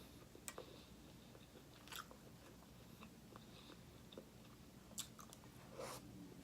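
Quiet eating sounds: soft chewing of a shrimp, with a few faint mouth clicks and smacks.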